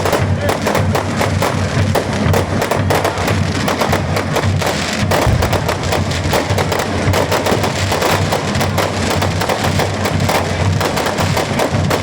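Fireworks display going off continuously, dense rapid bangs and crackling with no pause, over music.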